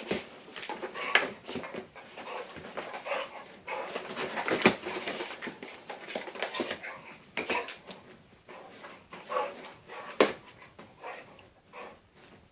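A dog play-fighting with a cat: panting and whimpering over irregular scuffling, with a couple of sharp knocks.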